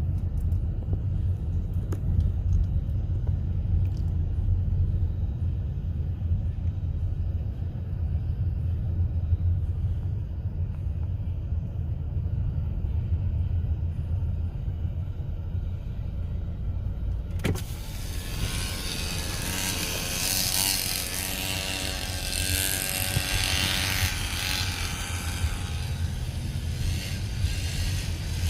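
Coleman minibike's single-cylinder four-stroke engine running with a steady low drone. About 17 seconds in, loud wind rush suddenly joins it, and the engine note wavers up and down as the bike rides on.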